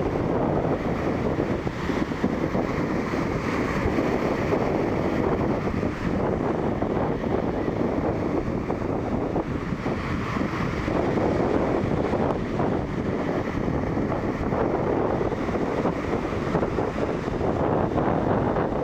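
Storm waves surging and breaking on a shore, with strong wind blowing across the microphone; a steady, dense rush with no letup.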